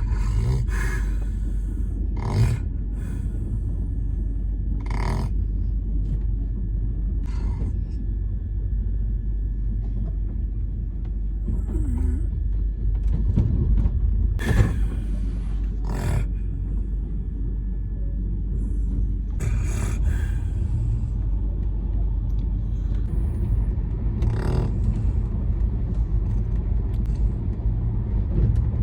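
Steady low rumble of a moving train heard inside a sleeper compartment, with a sleeping passenger's snores breaking through now and then.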